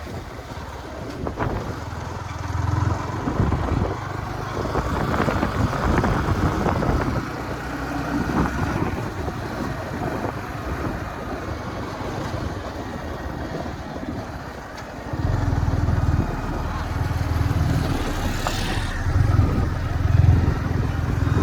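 Motorcycle running along a road while being ridden, with wind noise on the microphone; about fifteen seconds in, the low rumble grows louder.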